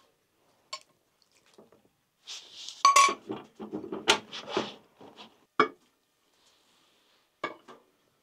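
Cooking utensils and dishes clinking and scraping: a run of clinks and scrapes from about two to five seconds in, then two single knocks.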